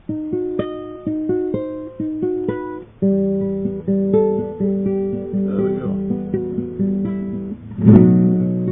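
Acoustic guitar played solo. Single picked notes come about three a second for the first three seconds, then the notes ring together as chords, and a loud strummed chord comes near the end.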